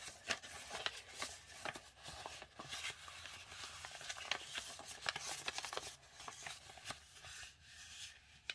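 A sheet of letter-size printer paper being folded and a crease pressed flat by hand: soft rustling with a quick run of small scratchy ticks.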